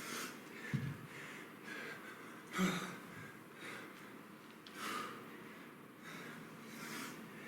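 A man breathing hard and forcefully through a set of kettlebell clean thrusters, with a sharp breath every second or two and the loudest about two and a half seconds in. A few dull low thumps come with some of the breaths.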